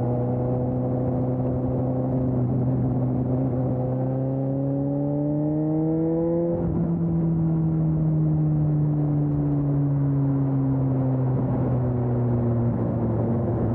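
2020 Suzuki GSX-S 750 inline-four with a Storm aftermarket exhaust, under way. The engine holds steady revs, then climbs in pitch for a couple of seconds as it accelerates. About halfway through the throttle shuts and the revs slowly fall away.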